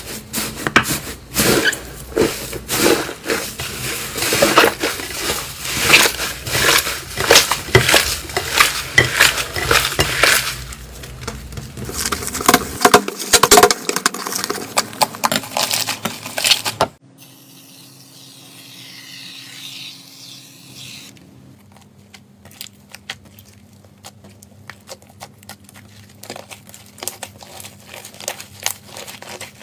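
Slime being squished and pressed, a dense run of crackling pops and clicks. It cuts off abruptly a bit over halfway through, and after a short quieter stretch comes a quieter run of finer clicks.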